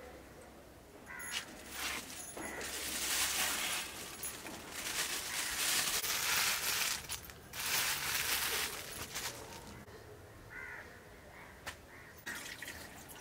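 Raw buffalo intestines sizzling in hot oil in a black wok over a wood fire, the hiss swelling in waves for several seconds, then dying down. A crow caws in the background near the end.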